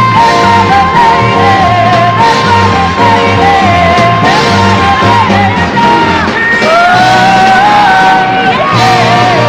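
Live pop-soul band music with a singing voice holding one long high note for about five seconds, then sliding into further sustained notes over a steady beat.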